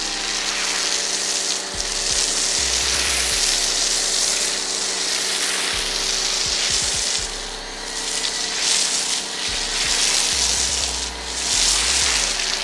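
Pressure washer spraying thick snow foam through an MJJC S 3.0 foam cannon: a loud, steady hiss that swells and dips as the spray sweeps, over a steady hum from the pressure washer's motor.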